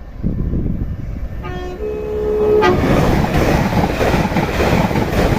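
A train sounds a short two-note horn, a lower note then a higher one, about a second and a half in. It then passes at speed with a loud, steady rush of wheel and rail noise.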